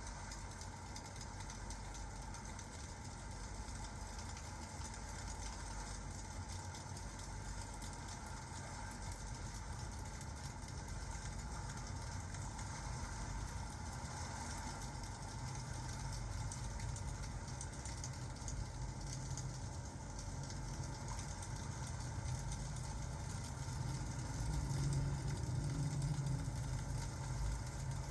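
Rain and crackling-fireplace ambience: a steady hiss over a low rumble that grows louder through the second half and is strongest a few seconds before the end.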